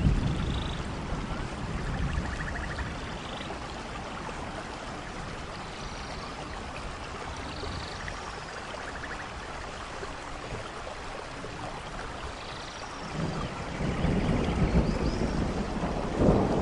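Steady heavy rain hissing over rainforest, with low thunder rumbling at the start and again for the last few seconds. A few short, faint high animal calls sound through the rain.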